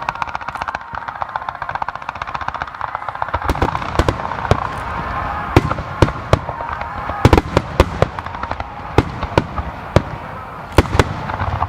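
Fireworks display: a dense spell of rapid crackling in the first few seconds, then a run of sharp separate bangs from shells bursting, some close together.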